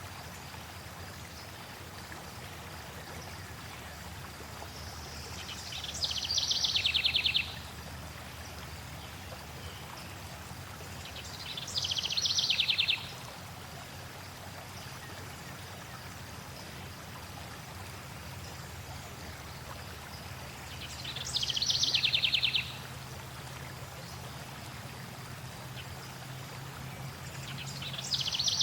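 A songbird sings a short, rapid trill that starts high and drops. It repeats it three times, roughly every six to nine seconds, and a fourth begins at the very end. Under it runs the steady rush of flowing stream water.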